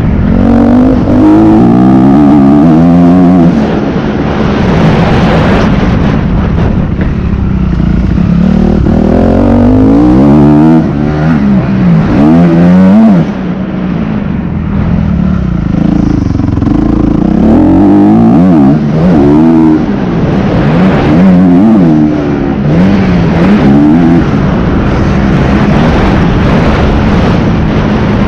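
Motocross bike engine running hard, its pitch rising and dropping again and again as the rider opens the throttle, shifts and backs off.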